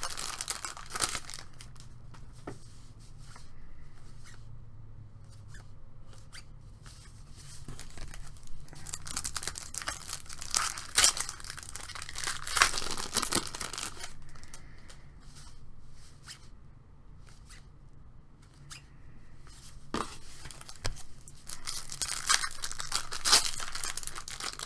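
Trading-card pack wrapper being torn open and crinkled, with cards being handled: irregular ripping and rustling, busiest in the middle and again near the end.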